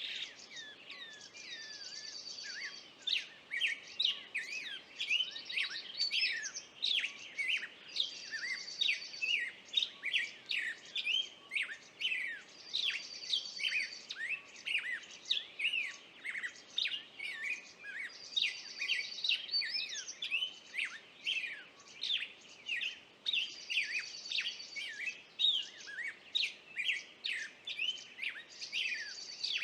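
Several birds chirping and calling at once, a dense run of short, sharp notes. A buzzy trill comes back about every five seconds.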